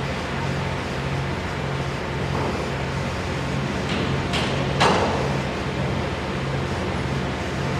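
Steady machinery drone with an evenly pulsing low hum, broken by two sharp clanks about four and a half and five seconds in.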